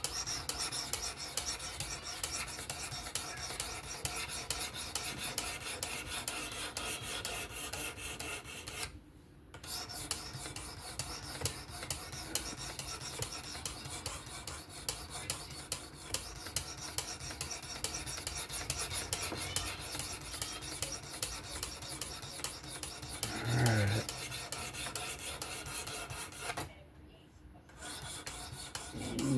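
Knife blade in 14C28N steel being stroked rapidly across a 400-grit stone on a fixed-angle sharpener: a continuous scraping rasp under light pressure, the refining stage at the edge's apex. The strokes stop briefly twice.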